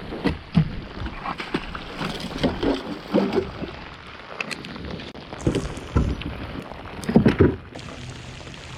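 Heavy rain hissing steadily on the water around a fishing kayak, with irregular knocks and short sloshing splashes from gear and water on the hull, loudest about seven seconds in.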